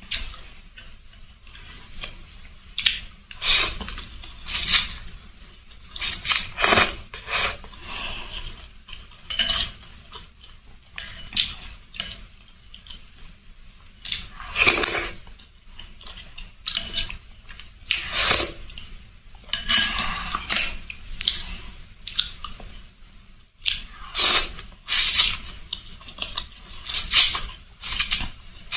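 Eating utensils clinking and scraping against a bowl of noodle soup, in irregular bursts of sharp clinks with quieter stretches between.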